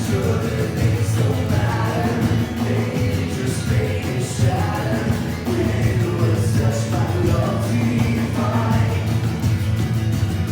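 Church worship band playing a song with voices singing the melody over a steady bass line and a regular cymbal beat.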